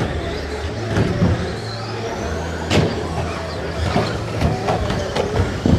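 Radio-controlled stock trucks racing on a track: motors whining, one pitch rising through the middle, over a steady low hum. Sharp knocks at the start, near the middle and near the end, typical of trucks striking each other or the track barriers.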